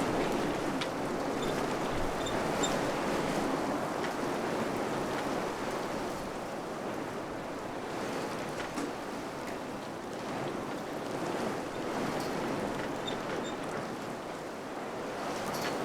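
Wind blowing steadily through a village, a continuous rushing that swells and eases slowly, with a few faint small ticks.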